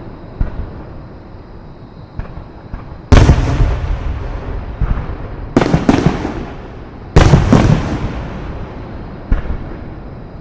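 Aerial fireworks shells bursting: a string of loud booms, some in quick pairs, each trailing off in a rumbling echo, with smaller pops between them.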